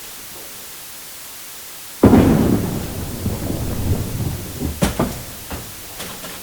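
A bowling ball lands on the lane about two seconds in and rolls with a low rumble, then strikes the pins with a short clatter of knocks near the end.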